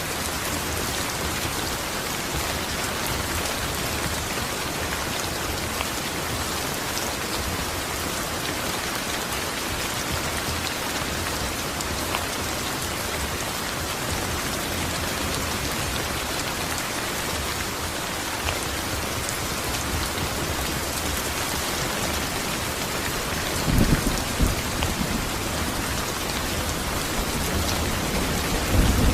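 Steady heavy rain falling, an even hiss. Low rumbles of thunder come twice near the end.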